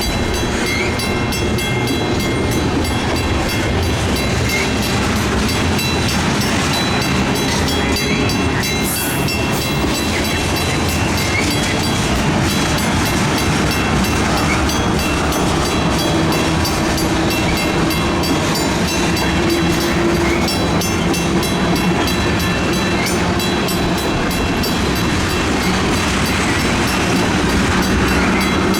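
Freight train rolling past: a steady rumble of railcar wheels on the rails, with a fast, even clickety-clack.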